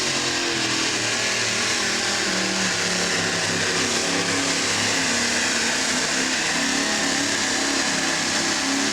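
Modified pulling tractor's engines running hard at full power during a pull, a loud steady howl whose pitch wavers slightly up and down.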